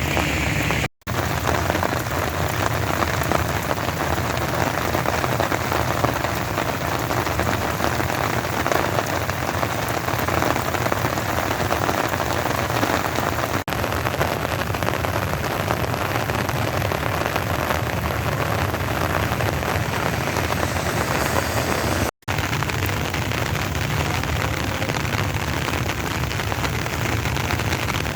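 Steady tropical-depression rain falling, an even hiss of drops. It cuts out for an instant twice.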